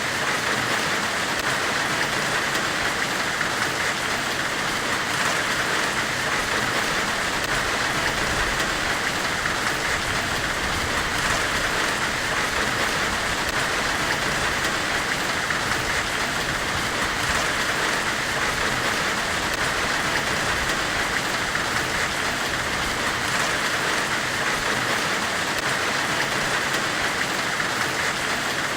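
Forge-weld white noise: a steady, even hiss, brightest in the upper middle, that does not change.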